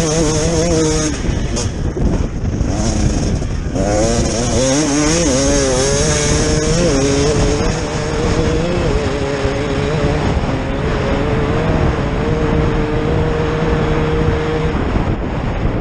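KTM 250 EXC two-stroke enduro motorcycle engine revving hard under load, its pitch wavering as the throttle is worked. It dips for a moment about two seconds in, then comes back strongly and holds high, steady revs before easing off near the end.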